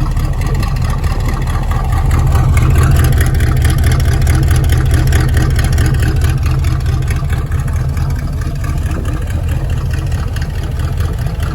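A car engine running with a steady deep exhaust rumble, swelling a little a couple of seconds in and easing off again after.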